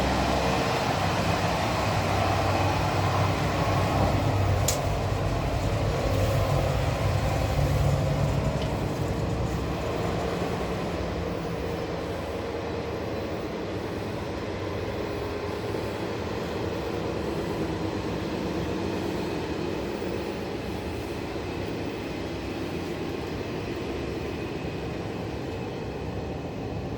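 Corail passenger train running past with a steady rumble of wheels on the track. The rumble is loudest for the first eight seconds or so, then eases to a lower, steady level. A single sharp click comes about five seconds in.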